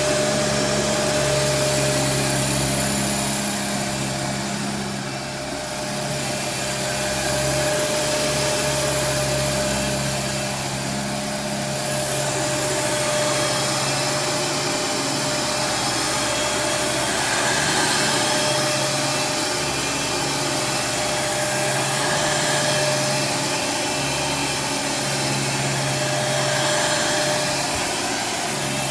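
Kenmore Progressive DirectDrive upright vacuum cleaner running, with its motor's steady whine; the brush-roll motor sits inside the roller, so there is no belt. The sound swells and eases every few seconds.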